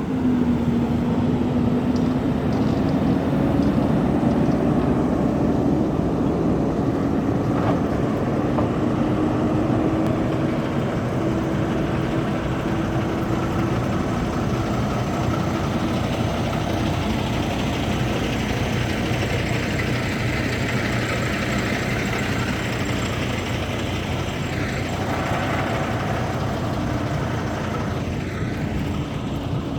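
Truck engine running, a steady drone with a tone that slowly rises in pitch over the first dozen seconds.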